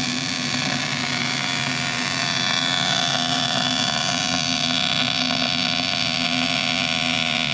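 Steady machinery running: a constant low hum under a continuous hiss, a little louder from about two seconds in.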